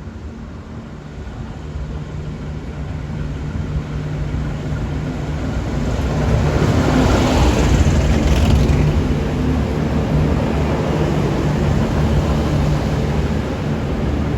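Diesel train approaching, its engine hum growing steadily louder. A rush of wheel and air noise is loudest about seven to nine seconds in, as it draws level.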